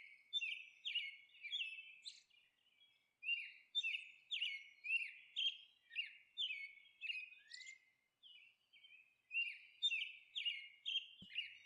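A small bird chirping: short, quick chirps that each drop in pitch, about two a second, coming in runs broken by pauses of a second or two.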